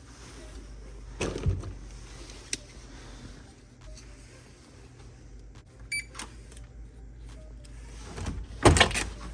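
Scattered knocks and clicks from things being handled, over a steady low hum. The loudest is a heavy thump near the end.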